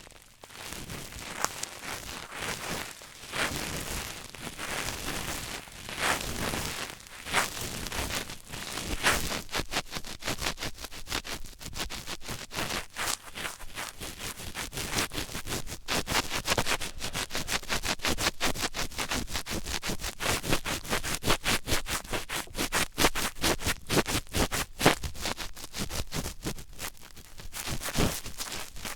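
Close-miked ASMR scratching and crackling: a dense run of quick clicks and scrapes that becomes faster after about nine seconds.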